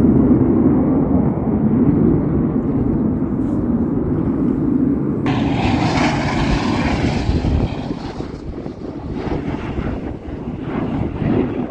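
Low rumble of jet aircraft flying past, fading over the last few seconds. About five seconds in, a sudden loud hiss joins for a couple of seconds.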